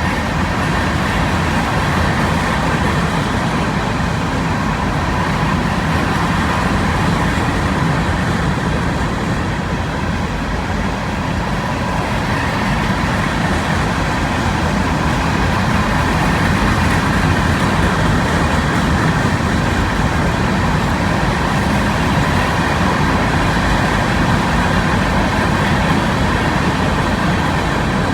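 Loaded rock train's freight cars rolling past: a steady, continuous rumble of steel wheels on the rails, with faint steady high tones over it.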